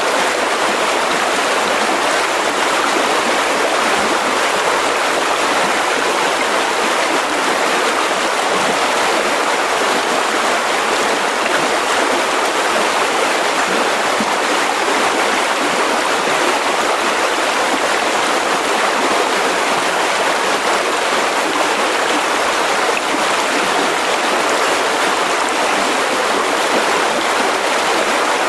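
Mountain river rushing steadily over rocks, a constant dense water noise with no breaks.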